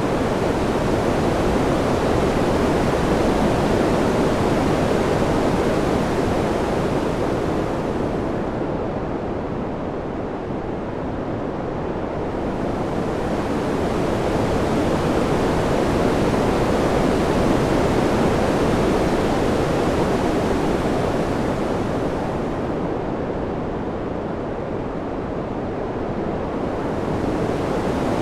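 Wind: a steady rushing noise that slowly swells and eases, with two lulls about fourteen seconds apart when it dulls and softens.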